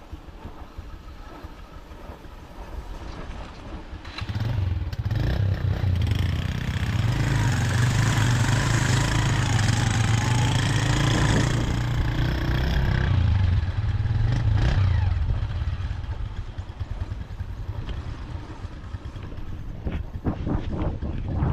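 A motorcycle engine running close by. It grows loud about four seconds in, with a wavering pitch, and dies away after about fifteen seconds, as a bike does when it passes on the road.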